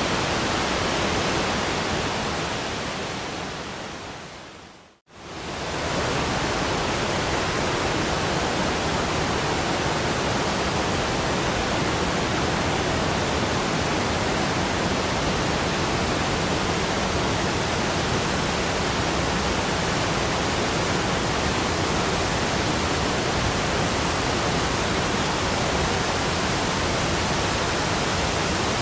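Steady rushing of a waterfall. It fades out to a brief silence about five seconds in, then swells back in quickly and runs on evenly.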